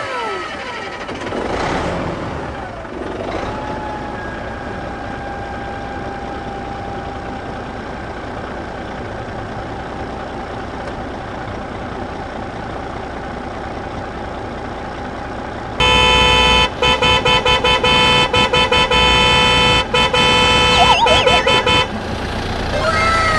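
Steady vehicle-like rumble, then a vehicle horn sounding in a run of repeated blasts for about six seconds, with a few quick falling chirps near the end.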